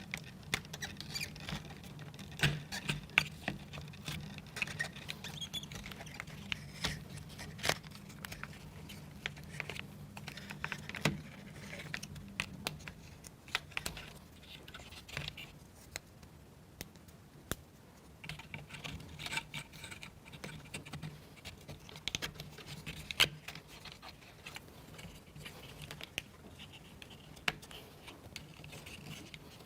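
Irregular light clicks, taps and scratches of plywood model-kit parts being handled and fitted together by hand, over a faint steady low hum.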